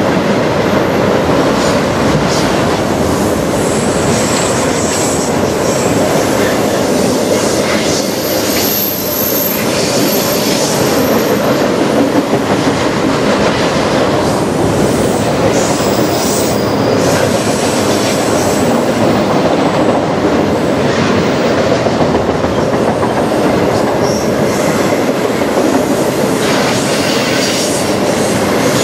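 Freight train of autorack cars rolling past, its steel wheels on the rails making a steady loud rumble and clatter. Thin high-pitched wheel squeals come and go about a third of the way in and again near the middle.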